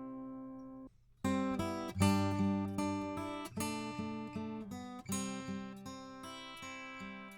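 Acoustic guitar played through a Warm Audio EQP-WA tube equalizer with its low cut engaged. A ringing chord breaks off about a second in. Then comes a run of plucked notes, each ringing out and fading.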